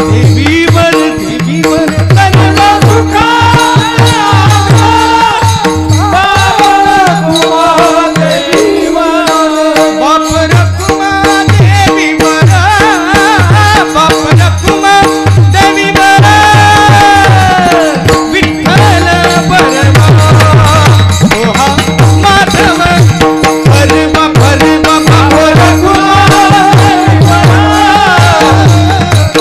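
Marathi devotional kirtan music: an ornamented, gliding melody over a steady drone, with a hand drum beating a regular rhythm and small hand cymbals jingling. The drum drops out briefly about a third of the way in.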